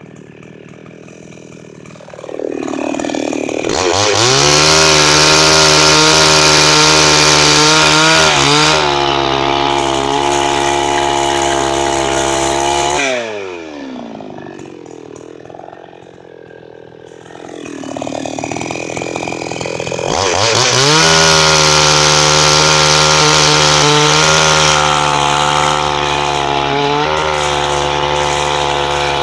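Chinese-made two-stroke chainsaw idling, then revving up to full throttle and held there for several seconds, likely cutting wood. It drops back to idle and revs up to full throttle again near the end.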